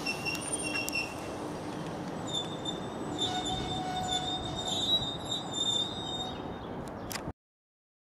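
Container wagons of a freight train rolling along the rails, with a high wheel squeal from about two seconds in. The sound cuts off abruptly near the end.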